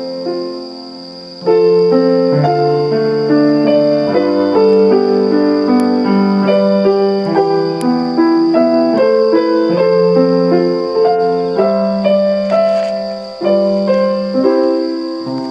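Background piano music playing a gentle melody with chords, which dips about a second in and comes back louder. A steady high faint whine lies under it.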